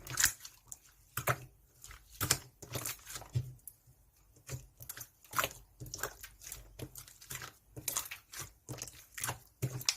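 Light orange slime being squished and stretched by hand, giving irregular sticky clicks and crackles, several a second.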